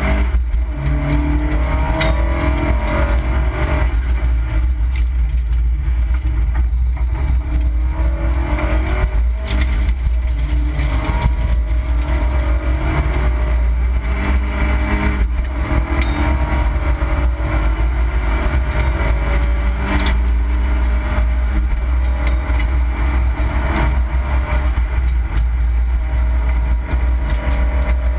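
Opel Corsa B rally car's engine heard from inside the cabin at stage pace, its pitch rising and falling as it revs through the gears, over a heavy low rumble. A few short knocks sound along the way.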